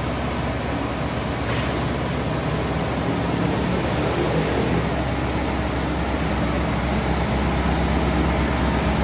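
1979 Alfa Romeo Alfetta's twin-cam four-cylinder engine idling steadily, growing a little louder near the end.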